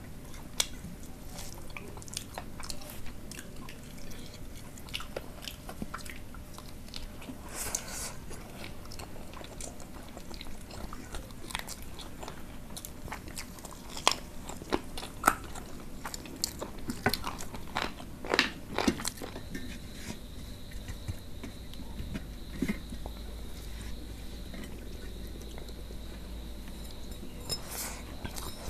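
Close-miked chewing and mouth sounds of two people eating rice and chicken curry by hand, with many short, scattered clicks.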